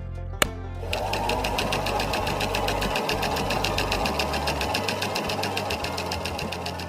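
A small motor-driven mechanism starts about a second in and runs with a rapid, even clatter, after a single sharp click just before it.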